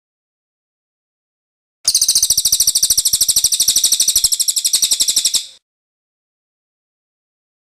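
A cililin bird's rolling ('ngerol') song. One rapid, high-pitched trill of closely repeated notes lasts about four seconds, starting about two seconds in.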